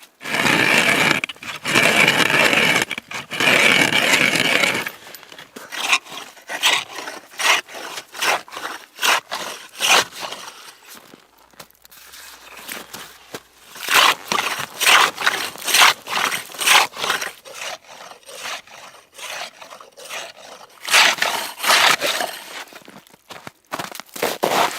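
Scraping: a continuous rough scrape for the first few seconds, then a long run of short, irregular scrapes and knocks.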